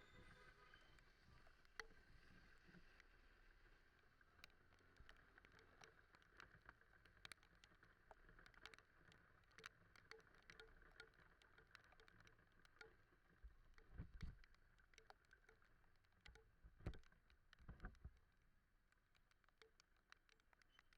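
Very faint ride audio: scattered sharp ticks like raindrops striking the camera, over a faint steady drone, with a few low thumps about two-thirds of the way in.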